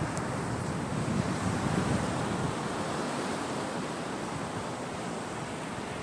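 Sea waves breaking and washing up on a beach, a steady surf with a slight swell about a second or two in.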